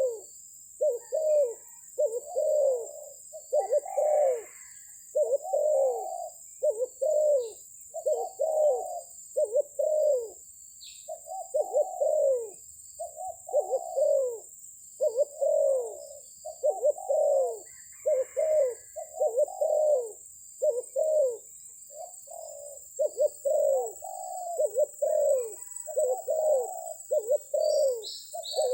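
Spotted doves cooing: an almost continuous run of repeated coo phrases, each note falling in pitch, with hardly a pause between phrases.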